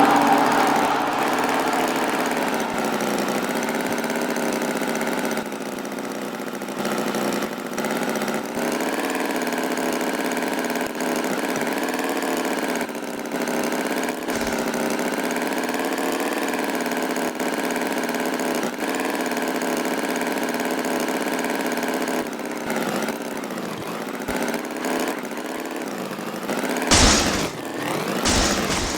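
Tractor engine running steadily, its pitch wavering slightly up and down. Two short, louder noises come near the end.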